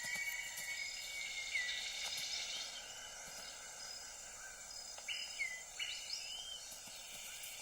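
Tropical rainforest ambience: a steady high drone of insects with a few short, curling bird whistles, one about a second and a half in and two more between five and six and a half seconds.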